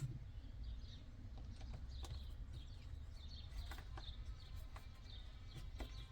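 Faint scattered clicks and taps of hands and a screwdriver fitting plastic steering-wheel parts, over a low steady background rumble, with faint short high chirps here and there.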